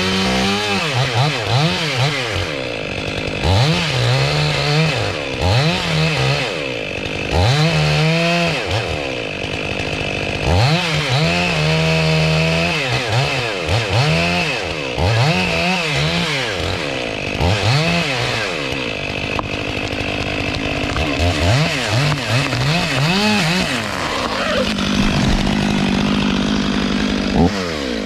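Stihl 500i two-stroke chainsaw revved up and down over and over, its pitch climbing and dropping every second or two as it works a cut. Near the end it settles back to a steady lower running note.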